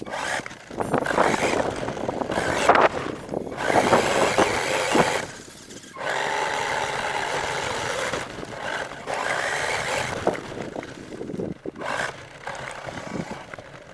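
R/C monster truck driving over the ground, its motor and tyres heard in several loud bursts with short breaks between them.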